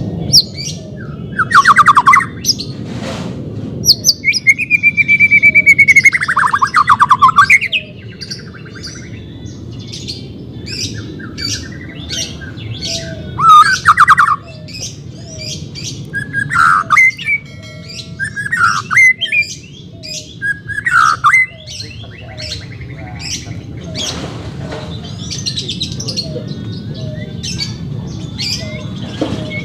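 White-rumped shama (murai batu) singing loud, varied phrases of sweeping whistles and rapid trills, with short chirps between the phrases.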